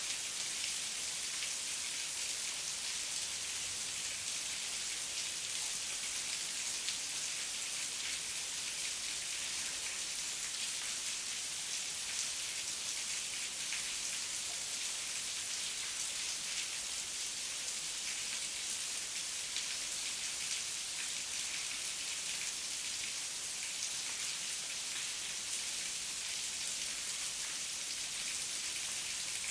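Steady heavy rain, a dense even hiss of drops falling on leaves and ground.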